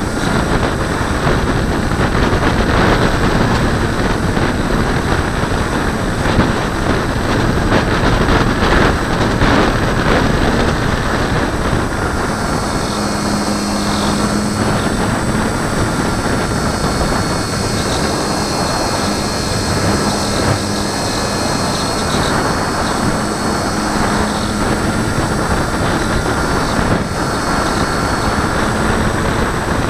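Loud, steady rush of airflow over a camera mounted on a glider's wing in flight, buffeted by gusty wind. Faint steady tones join about twelve seconds in.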